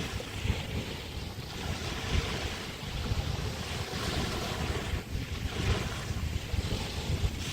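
Small bay waves washing ashore, the hiss swelling and fading every couple of seconds, with wind buffeting the microphone in a low rumble.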